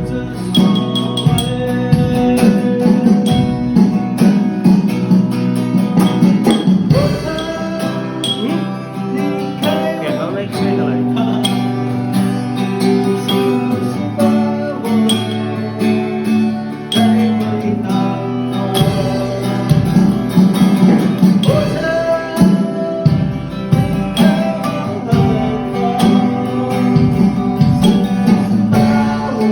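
A band playing a song: strummed guitar accompanying a singer, with a steady low accompaniment underneath.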